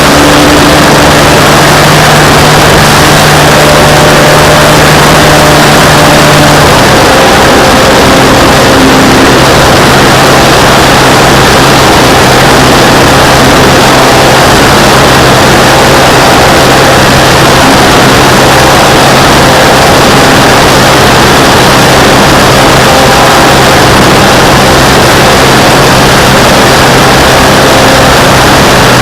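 Radio-controlled model airplane's motor and propeller running steadily, heard from a camera mounted on the plane, buried in heavy wind rush. The motor pitch drops a little about seven seconds in as the throttle eases back.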